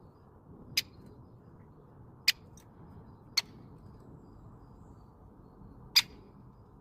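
Woodpecker making four sharp, single clicks at uneven intervals, about a second or more apart. The last click, near the end, is the loudest.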